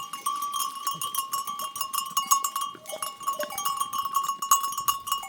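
Many bells on a moving herd of goats clanking and ringing without a break: dense overlapping strikes at a few steady pitches.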